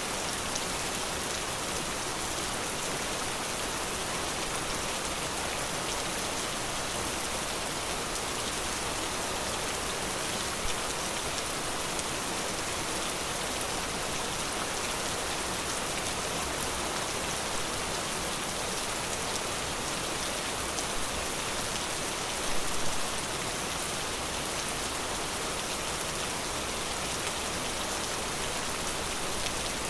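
Steady forest rain falling, a dense even hiss, with a few brief louder spots about a third of the way in and again about three-quarters through.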